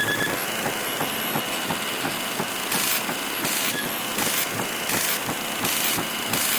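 Television static from a poor signal: a steady hiss full of crackles with faint whistling tones. From about three seconds in, the hiss swells and fades in a regular pulse, roughly once every two-thirds of a second.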